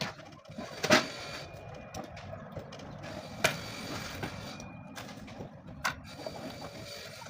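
Upholstery work on an armchair: three sharp mechanical clacks about two and a half seconds apart, the first the loudest, over steady handling and rustling noise.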